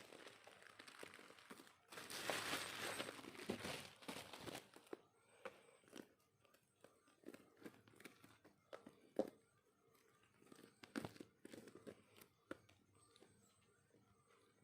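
Packaging being unwrapped by hand: a few seconds of tearing and crinkling about two seconds in, then scattered small clicks and taps as the contents are handled.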